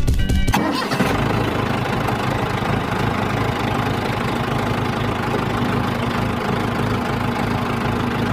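Small motor of a DIY toy bulldozer running steadily with an even hum. Background music cuts off about half a second in.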